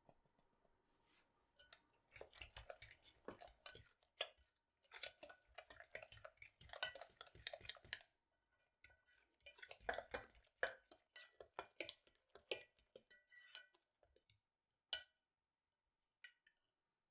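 Dishes and utensils handled in a kitchen: irregular clusters of light clinks and taps, pausing twice, then one sharp click near the end.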